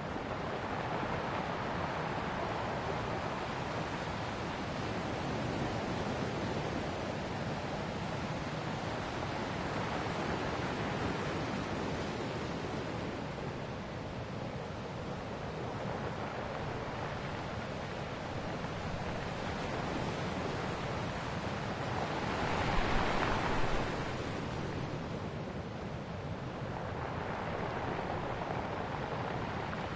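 Ocean waves washing onto a shore: a steady rush of surf that swells and eases, with one louder wave breaking about three-quarters of the way through.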